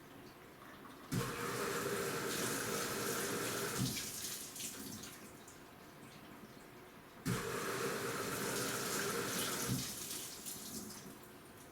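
AQUA washing machine agitating the wash: its direct-drive inverter motor drives the load in strokes about six seconds apart. Each stroke brings in a steady motor hum with churning water, ends in a low knock, then settles to water sloshing. Two strokes are heard.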